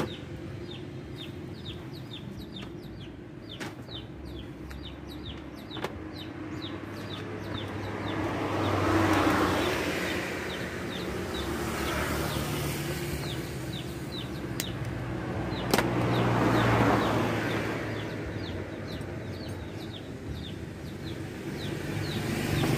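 A bird peeping, short high calls a few times a second, repeated over and over, while a vehicle passes several times, swelling and fading, with a few sharp clicks.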